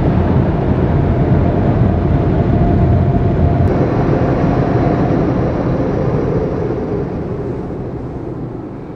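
Automatic car wash air dryer blowers running loud, heard from inside the car, with a deep rumble that feels like an earthquake. The noise fades over the last few seconds as the drying ends.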